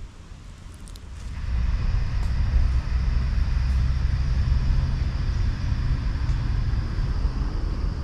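A low engine rumble with a steady hiss above it, starting about a second in and holding steady.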